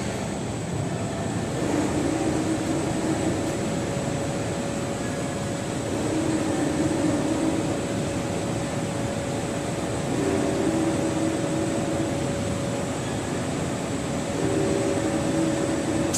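Automatic screen washout booth running: a steady machine noise with a constant hum, and a lower tone that sounds for a second or two about every four seconds.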